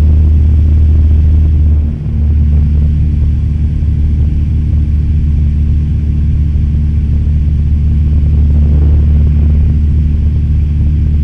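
Cessna 172's four-cylinder piston engine and propeller droning steadily in flight, with a brief dip in level about two seconds in.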